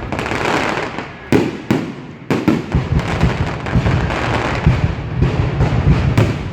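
Fireworks salute going off: a rapid series of sharp bangs, thickest from about a second and a half in, with crackling between them.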